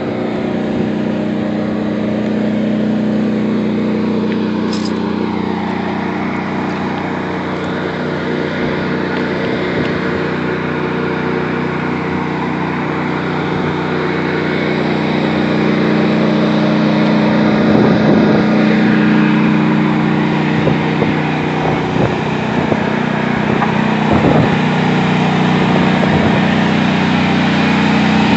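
Engine of a knocked-out tank still running steadily, growing somewhat louder in the second half, with a few knocks about two-thirds of the way through.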